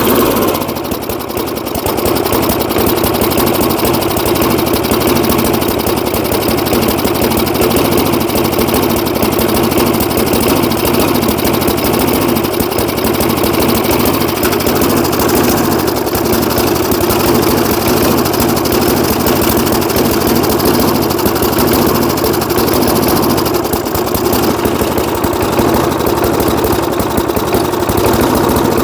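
A 3.5 hp Briggs & Stratton single-cylinder four-stroke on a 1979 Rocket push mower, running steadily after a brief dip about a second in. It is not yet running smoothly; the owner blames too much gas dumped in and wonders about a sticky valve.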